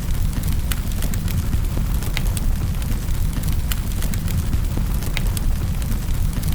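Wood fire burning in a fireplace: irregular sharp crackles and pops, a few each second, over a steady low rumble.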